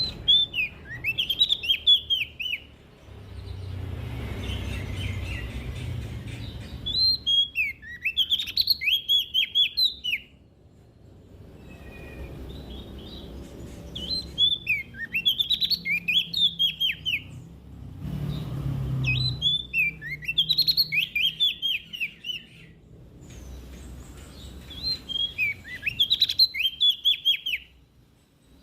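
Prenjak daun (leaf warbler) singing: five quick phrases of rapid, falling high chirps, each about three seconds long and a few seconds apart, over a low background rumble.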